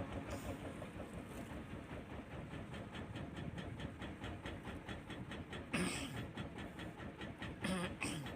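An engine running with a fast, even pulsing beat, broken by two louder rushing bursts about six and eight seconds in.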